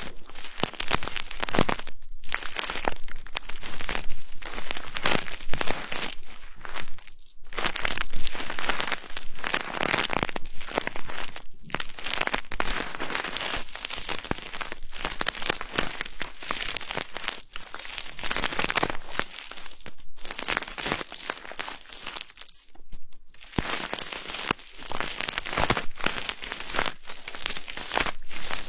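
Crinkly rustling of an ASMR trigger tool rubbed and brushed against a binaural microphone, in long runs of strokes broken by short pauses.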